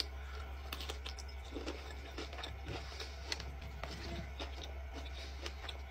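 Quiet mouth sounds of chewing a bite of heart of palm with cottage cheese, with scattered small clicks of fingers picking through vegetables in a plastic container, over a steady low hum.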